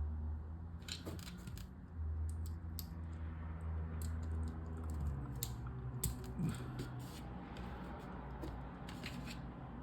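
Small plastic LEGO pieces clicking and snapping as they are handled and pressed together, in scattered light clicks, over a steady low hum in the background.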